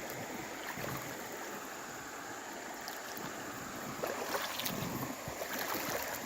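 Creek water running steadily, with a few short sharp sounds about four to five seconds in.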